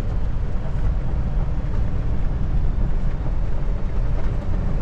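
Kenworth T680 semi truck driving, heard from inside the cab: a steady low rumble of diesel engine and road noise.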